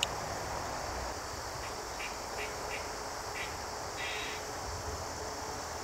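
Outdoor insect chorus with crickets, a steady high-pitched drone, with a handful of short faint high chirps or scrapes through the middle and a single click at the very start.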